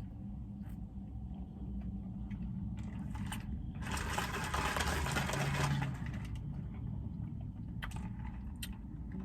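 Steady low hum of a car idling, with a louder hissing rush lasting about two seconds midway and a few small clicks.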